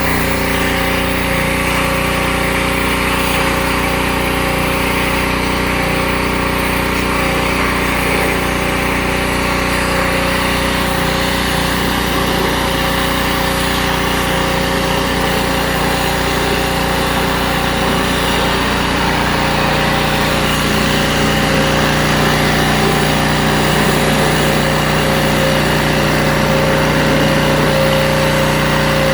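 Small petrol engine of a pressure washer running steadily, with a slight change in its note about two-thirds of the way through.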